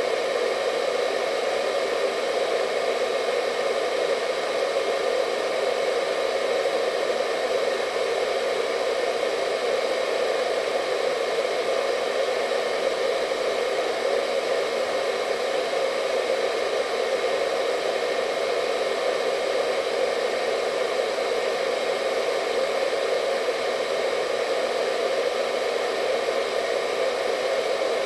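Hair dryer running continuously at a constant setting: a steady rushing of air with a faint motor whine above it.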